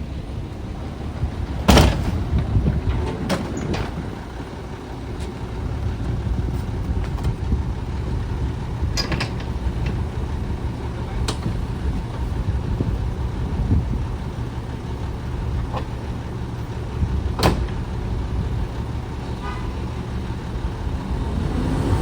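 Garbage truck's diesel engine running with a steady low rumble, broken by five or so sharp bangs spread through it, the loudest near the start.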